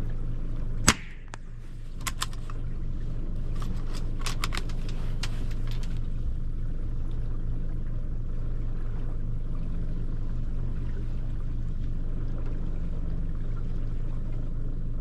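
A single gunshot about a second in, fired at a seal over the steady low hum of the boat's idling engine. A few sharp clicks follow between about two and six seconds in.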